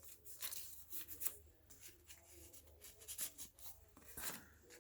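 Faint rustling and soft taps of paper as the pages and cards of a handmade paper journal are handled and turned.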